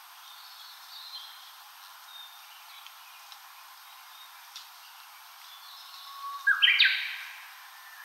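Wild forest birds calling faintly. About six seconds in, a nearby bird sings one loud short song phrase: a low held note that jumps into a quick run of higher, rising notes.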